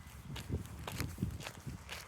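Footsteps of someone walking, a steady pace of about three steps a second, with sharp light clicks between the steps.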